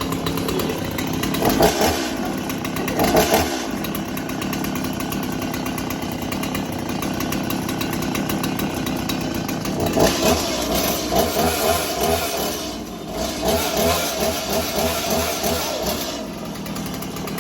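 Two-stroke chainsaw engine running just after it finally started from the pull cord. Its level and pitch swell several times, most around ten to sixteen seconds in.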